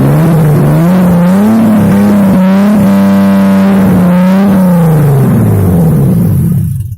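Mercedes M104 2.8-litre straight-six petrol engine being revved: it climbs in pitch over the first second and a half, holds high for about three seconds, then drops back. The sound cuts off abruptly just before the end.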